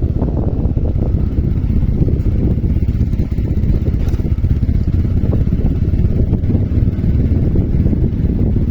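Motorcycle running steadily on the move, with wind rushing over the microphone as a loud, even low rumble.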